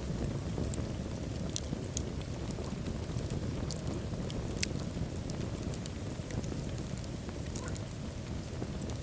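Wood fire burning in a fireplace: a steady low rumble of flames with many small sharp crackles and pops scattered throughout, a few of them louder.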